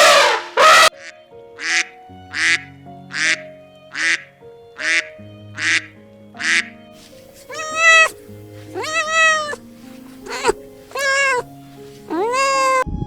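A duck quacking in a run of short, harsh quacks a little under a second apart, then a cat meowing five times, each meow rising and falling in pitch, over background music with held notes.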